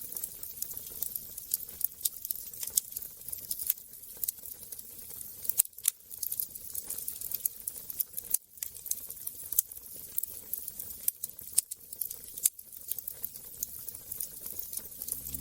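Wood fire in a fireplace crackling: irregular sharp pops and snaps, some louder than others, over a faint steady hiss.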